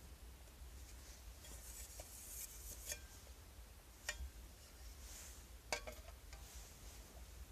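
Camping cookware and utensils being handled: faint rustling with three sharp clinks, about three, four and six seconds in.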